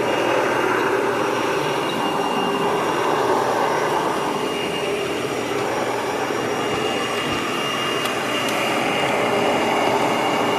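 Hoover WindTunnel vacuum cleaner running steadily: an even rush of motor and airflow noise with a thin, constant high whine.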